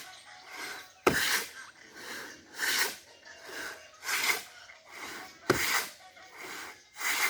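Hand saw cutting through wood in steady back-and-forth strokes, roughly one stroke a second, every other stroke louder.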